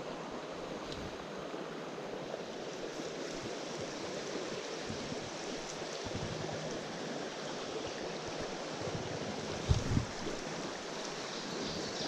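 Small mountain stream running, a steady rush of water. A couple of brief low thumps come about ten seconds in.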